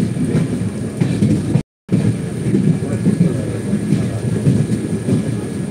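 Running noise of a moving passenger train heard from inside the coach: a steady low rumble of the wheels on the track, which drops out completely for a moment about one and a half seconds in.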